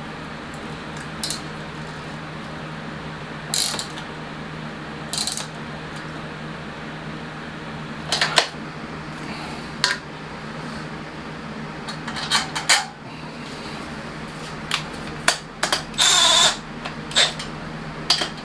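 Scattered clinks and clicks of metal hand tools and bracket parts being handled and set down, over a steady low hum. About sixteen seconds in, one longer metallic ring stands out.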